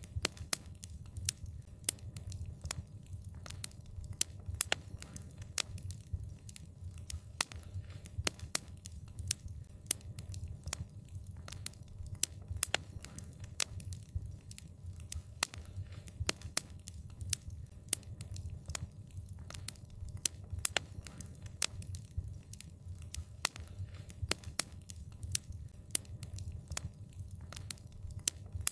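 Wood fire crackling steadily: a low rumble of burning with many sharp, irregular pops and snaps.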